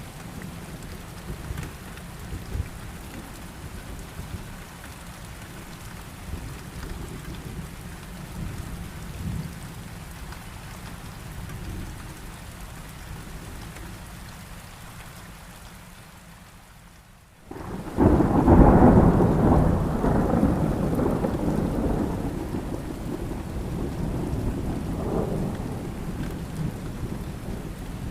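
Heavy rain falling steadily under a low rumble of thunder. After a brief dip in level about 17 seconds in, a loud thunderclap breaks at about 18 seconds and rolls on for several seconds, slowly fading back into the rain.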